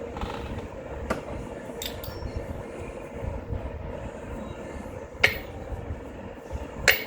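Metal clinks and knocks of hand tools and bolts during engine work: a few sharp clinks, the two loudest near the end, over a steady background hum.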